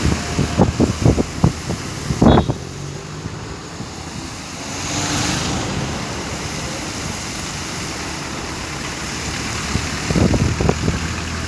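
Wind buffeting the microphone in irregular low thumps over a steady outdoor rush of wind, with a brief swell about five seconds in.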